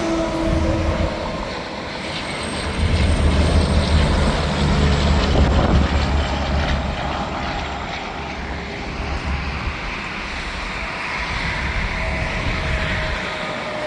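Interstate highway traffic, heavy trucks passing at speed: a continuous rush of tyre and engine noise with a deep rumble that swells for a few seconds about three seconds in as a truck goes by, then eases. Faint tones falling in pitch as vehicles pass.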